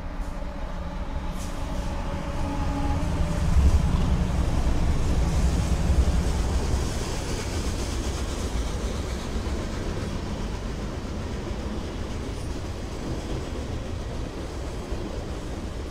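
Freight train passing close by: the diesel locomotives' engines run past at the start, with the sound loudest about four to seven seconds in, followed by the steady rolling rumble of the freight cars on the rails.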